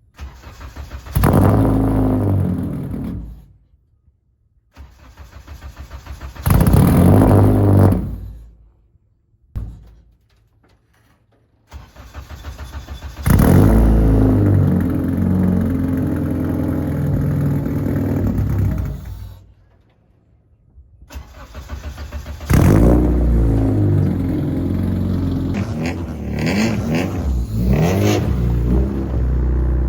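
Honda K24 engine in a Civic race car being cranked and catching four times, running for a few seconds each time and then dying. This is a cold engine that won't hold an idle.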